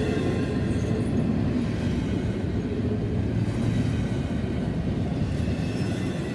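Freight train of autorack and intermodal well cars rolling past close by: a steady rumble of steel wheels on rail, easing slightly toward the end.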